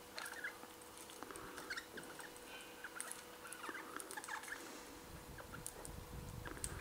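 Faint short chirps and squeaks from small birds feeding on seed, with light pecking clicks scattered through, over a faint steady hum.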